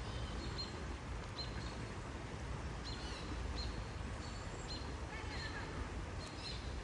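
Short high bird chirps recurring every second or two over a steady low outdoor rumble.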